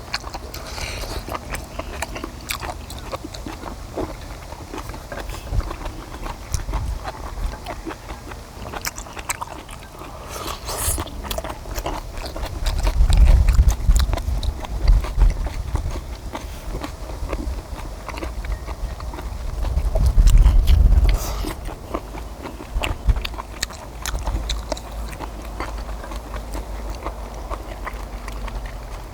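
Close chewing and biting of stir-fried octopus and kimchi, with many short wet smacks and clicks. A low rumble swells up twice, about a third of the way in and again about two thirds in.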